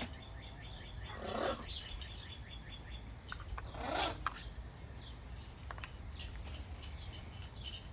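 Birds calling: a quick run of high chirps over the first few seconds, and two short harsh squawks, one about a second in and one about four seconds in.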